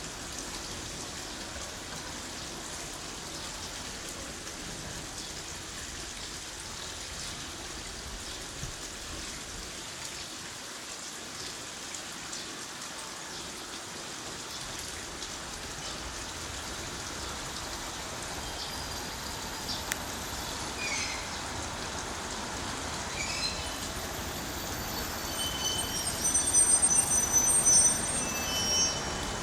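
Steady rain falling. From about two-thirds of the way through, a train's wheels squeal in high, wavering tones on the rails, getting louder and peaking near the end as the train comes close.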